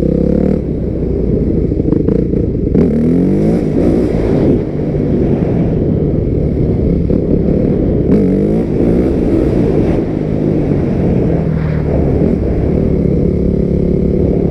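250 cc dirt bike engine being ridden, the throttle opening and closing; its pitch climbs hard twice, about three seconds in and again around eight seconds.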